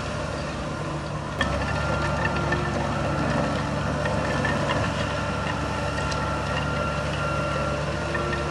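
Heavy diesel engine of earthmoving machinery running steadily, with a single sharp clank about a second and a half in, after which the engine runs a little louder.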